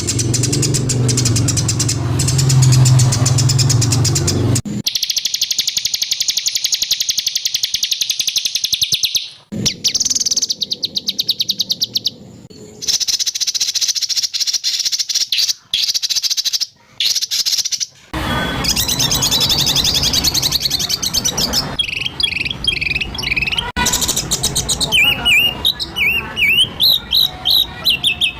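Spliced recordings of songbird song, a training compilation of calls for caged shamas. The clip switches abruptly between segments: a fast, high rattling trill about five seconds in, then after about eighteen seconds a run of short chirping notes that rise and fall.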